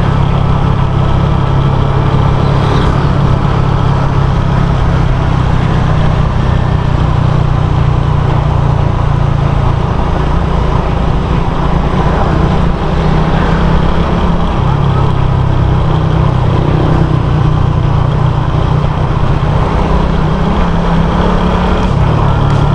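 Suzuki Raider 150 FI's single-cylinder four-stroke engine running under way, its pitch dropping and rising a few times as the speed changes.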